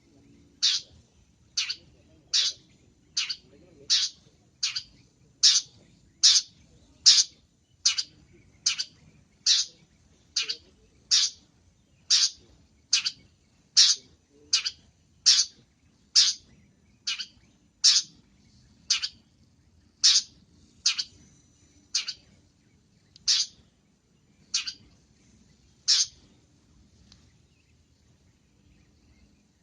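Long-tailed shrike (cendet) giving one sharp, falling call over and over, a little more than once a second, stopping near the end.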